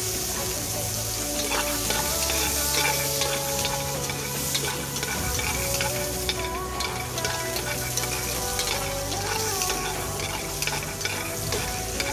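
Chopped aromatics sizzling in hot oil in a pan, with a spatula stirring and scraping them, which gives many small clicks over the steady hiss of frying.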